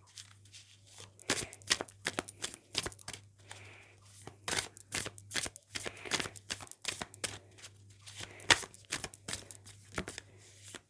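Tarot cards being shuffled and handled: a dense, irregular run of papery slaps, flicks and rustles over a faint steady low hum.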